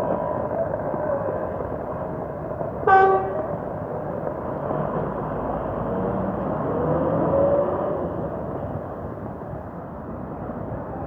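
A vehicle horn sounds once, briefly, about three seconds in, over the steady din of heavy rain.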